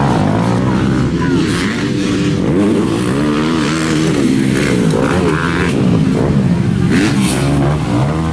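Motocross dirt bike engines revving, the pitch climbing and dropping again and again, with more than one bike overlapping.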